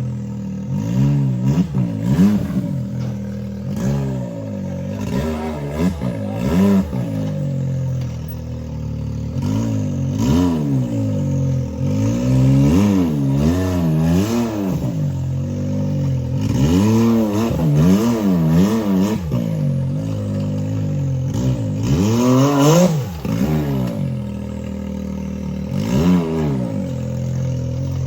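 Side-by-side UTV engine revving up and down in repeated bursts while crawling over rock, with clanks and scrapes of the machine on the rock.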